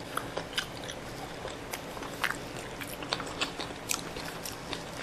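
Close-miked chewing and eating: small wet mouth clicks and smacks, scattered irregularly.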